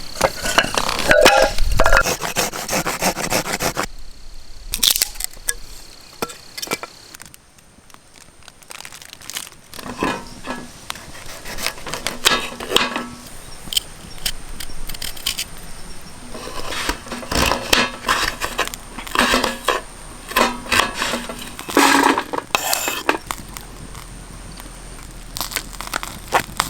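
Someone eating ramen: irregular, noisy slurps of noodles and broth, repeated in bursts with short pauses between, quieter for a few seconds near the start.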